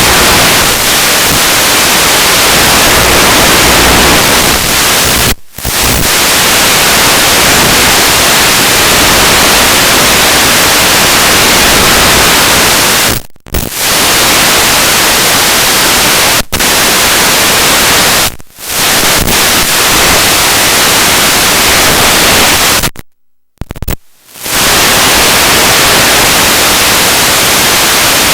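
Loud steady static hiss, the sound of an analog FPV video receiver's audio channel carrying no sound from the plane. It cuts out to silence for an instant five times, the longest gap lasting about a second, about three-quarters of the way through.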